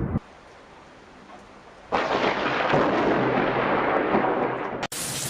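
Thunderstorm noise. A low rumble cuts off at once, there is a short quiet gap, and then a loud, steady rush of rain and wind sets in suddenly about two seconds in. It breaks off for an instant near the end and carries straight on.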